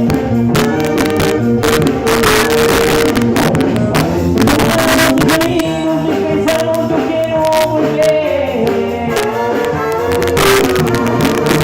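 Band music played over the sound system during a sound check: held melody notes over steady percussion hits.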